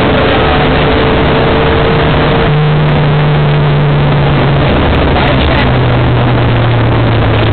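Rally car engine heard from inside the cabin while driving flat out on a stage, loud and overdriven, with road and cabin noise. Its note steps up in pitch about two and a half seconds in and steps back down about two seconds later.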